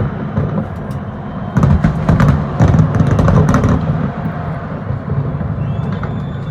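Fireworks display: a dense run of booms and crackling bangs over a continuous low rumble, thickest between about one and a half and four seconds in.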